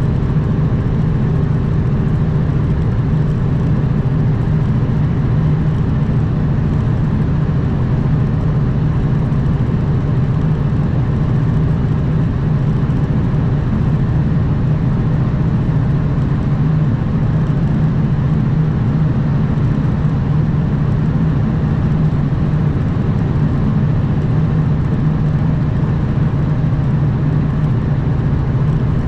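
Diesel engine of a Kenworth W900 semi truck running steadily at a constant pitch under way, with road and wind noise.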